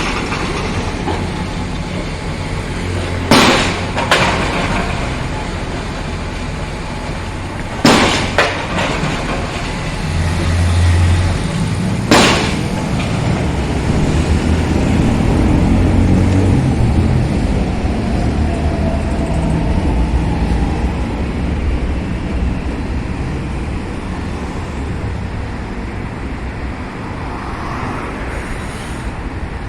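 Commuter train heard from inside a carriage as it runs between stations: a steady low rumble, with five sharp clunks in the first half, two of them close together twice.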